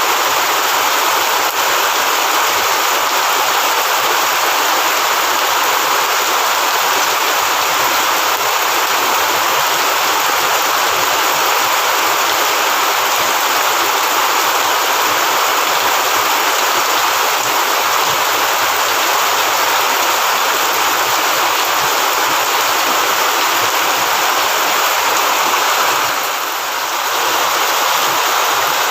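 Heavy rain pouring down steadily as a dense, even hiss, dipping briefly near the end.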